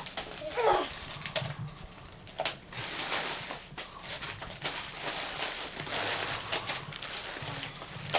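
Christmas wrapping paper being torn and rustled as a present is unwrapped, an irregular crackling rip that grows busier from about three seconds in. A short falling squeal-like sound comes about half a second in.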